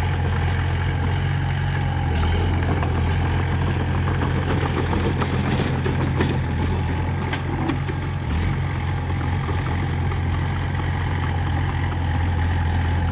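Diesel engine of heavy earthmoving equipment running steadily with a deep, even drone. A few short knocks and rattles come about halfway through.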